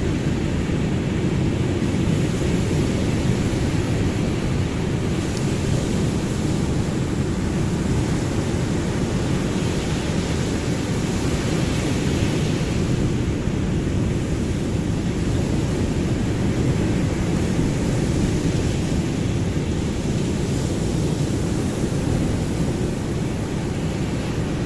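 Ocean surf making a steady, deep, continuous rush, with no single breaking wave standing out.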